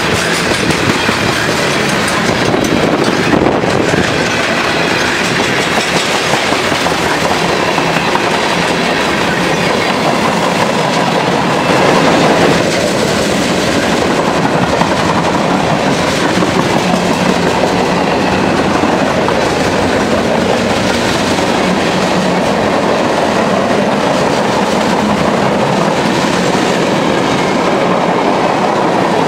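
CSX freight cars passing close at speed: the steady rumble and clatter of steel wheels running over the rails.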